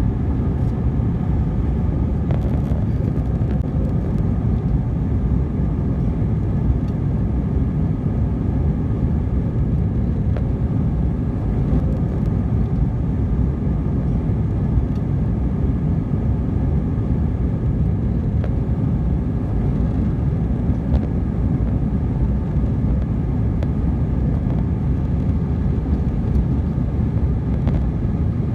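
Steady cabin noise of an Airbus A319 airliner: a constant low roar of engines and rushing air with a faint steady whine above it, unchanging throughout.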